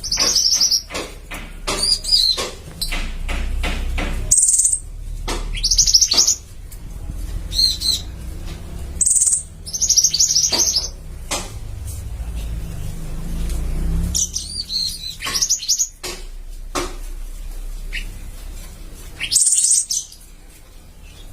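Small caged songbirds, mantenan and pentis raja kept as song-tutor birds, chirping and singing against each other. Short, high-pitched trilled phrases come again every second or two, with a low steady rumble underneath.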